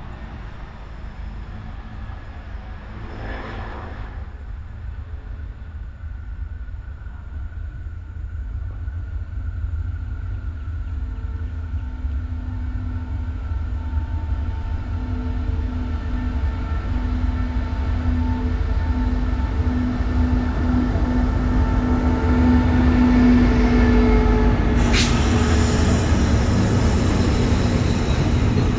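Diesel-electric locomotive (SRT CSR 5112) hauling a container freight train as it approaches, its engine drone with a steady hum growing gradually louder. The container wagons then roll by, with a sharp high sound about three quarters of the way through.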